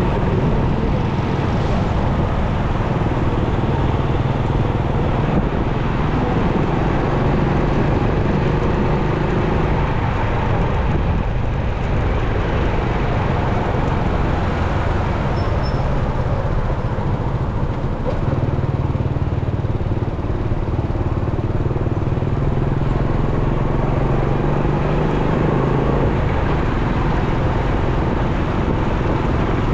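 Motorcycle engine running on the move through city traffic, its note rising and falling a little, over a steady rush of road noise.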